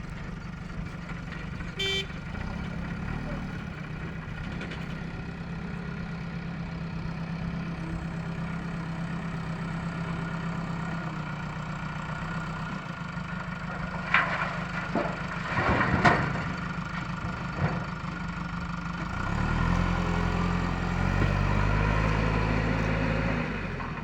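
Heavy diesel engine of a JCB 3DX backhoe loader running steadily. There is a short horn toot about two seconds in and a few sharp metallic clanks about two-thirds of the way through. Near the end the engine grows louder and deeper under load for a few seconds.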